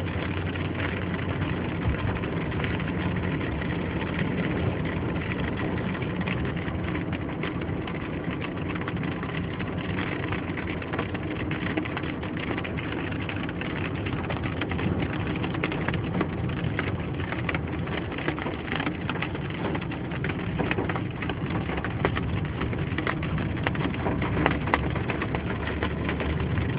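Rain pattering and ticking on a vehicle, many small drops striking it, over a steady engine and tyre noise.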